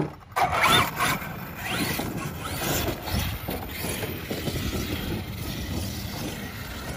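Arrma Kraton 8S RC monster truck's brushless motor whining, rising and falling in pitch twice in the first couple of seconds as it speeds up and slows, then a steady rough running noise.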